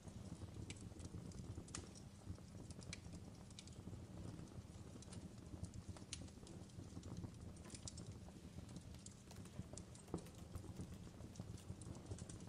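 Wood fire crackling in a fireplace: a low, steady rumble with irregular sharp pops and snaps.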